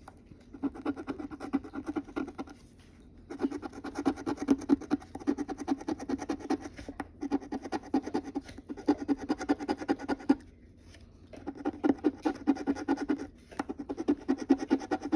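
A scratch-off lottery ticket being scratched off in quick, repeated strokes, in bursts of a few seconds with short pauses between.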